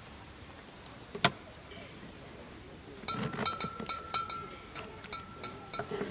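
A sharp knock, then about three seconds of rapid metallic clinking with a steady ring under it: cookware or a metal utensil striking a pot or pan.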